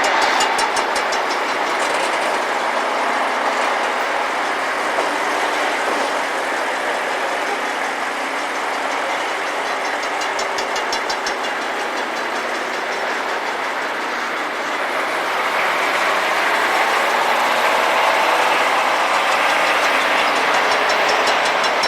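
Rail grinder at work: its grinding wheels grind the railhead, making a loud, steady, harsh grinding noise that eases slightly midway and swells again near the end.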